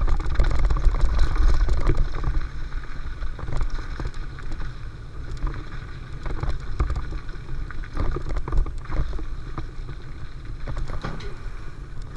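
Mountain bike riding down a trail: a low wind rumble on the microphone, with the bike's chain and frame rattling over bumps. It is loudest in the first two seconds, then eases off.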